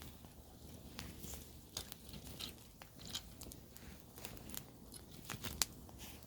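Wood campfire burning, crackling with irregular sharp pops and snaps over a low rumble of the flames, one louder pop near the end.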